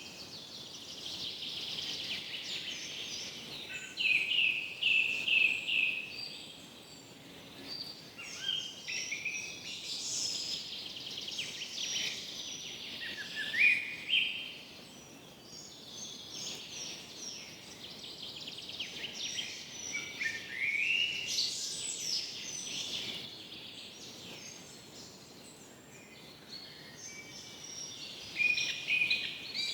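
Several birds singing and calling together in a forest chorus, overlapping chirps and trills with phrases of quick repeated notes, over a soft steady hiss.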